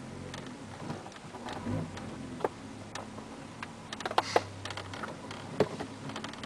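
Volkswagen VR6 engine heard from inside a Mk2 Golf's cabin on the move, a steady low hum at modest revs. Scattered light clicks and rattles from the interior run over it.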